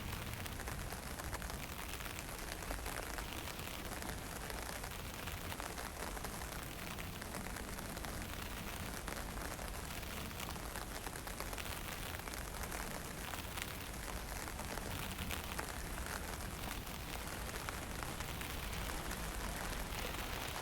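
Steady hiss of light rain and misty drizzle mixed with wind, with a low rumble underneath that does not let up.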